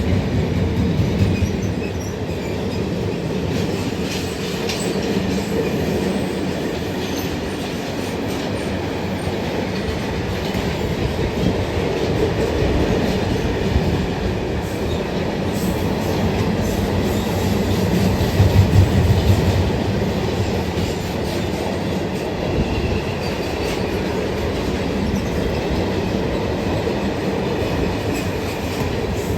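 Freight train of telescopic-hood wagons hauled by an ET22 electric locomotive rolling past at speed, its wheels clacking over the rail joints with a steady rumble, a little louder for a moment about two-thirds of the way through.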